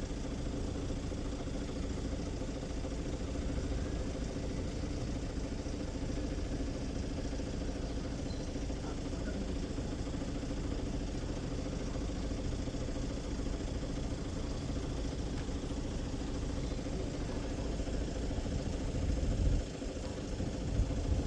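A vehicle engine idling: a steady, even hum over a low rumble.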